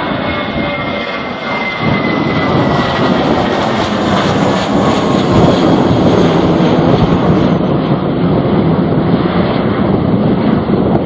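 Jet airliner passing close with a rushing engine noise that swells about two seconds in and peaks mid-way, a faint whine falling in pitch early on. Strong gusting wind buffets the microphone.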